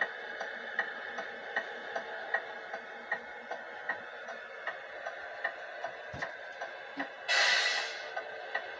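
Simulated hazard-flasher ticking from a Tamiya multifunction sound unit in an RC truck, about two and a half clicks a second over a faint steady electronic hum, with a short loud hiss near the end.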